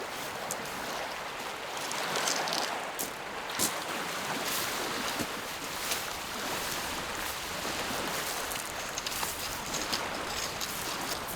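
Small lake waves lapping at the shore: a steady wash that swells and eases, with scattered sharp ticks.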